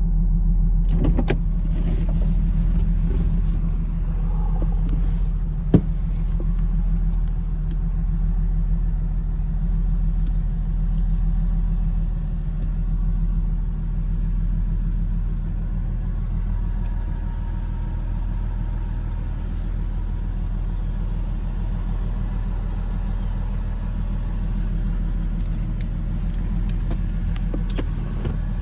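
2004 Porsche Boxster 986's flat-six engine idling steadily after start-up, with one sharp click about six seconds in.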